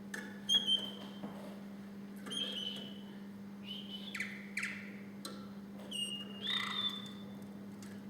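Domestic song canary singing a few short, separate phrases of whistled notes and falling sweeps with pauses between them, over a steady low electrical hum.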